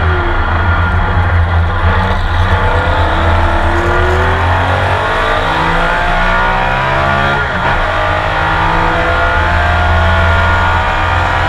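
Porsche 911 RSR racing engine heard from the cockpit, accelerating hard with its pitch climbing steadily. There is a quick upshift about two-thirds of the way through, after which the pitch climbs again.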